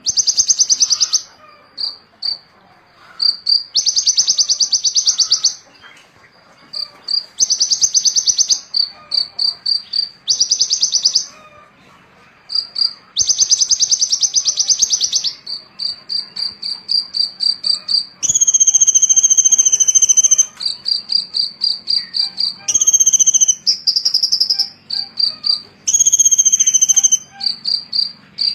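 Small songbird singing a varied, high-pitched song: dense buzzing trills alternate with strings of quick pips, and from about two-thirds of the way in, clearer held whistled notes come in between the pips.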